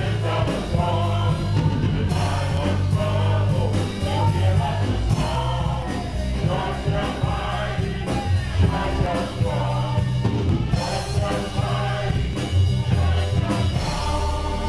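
A congregation singing a gospel song together with a live church band, bass and drums prominent.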